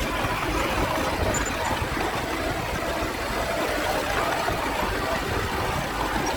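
Engine of heavy earthmoving equipment, a small bulldozer or dump truck, running steadily without marked revving.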